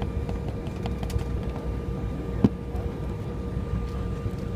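Cabin noise of an Embraer 175 jet at departure: a steady low rumble with a faint steady hum, light clicks and rattles, and one sharper knock about halfway through.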